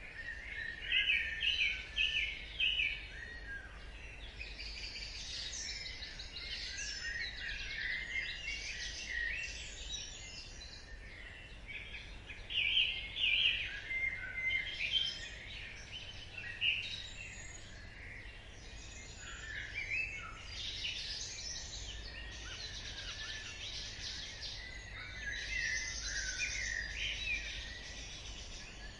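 Dawn chorus: several songbirds singing and chirping over one another in quick, overlapping phrases, busiest about a second in and again around the middle, over a low steady rumble.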